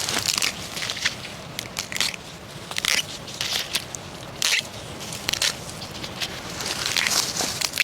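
Dry leaves and twigs crackling and crunching underfoot in irregular bursts as someone walks through the undergrowth of a bamboo grove.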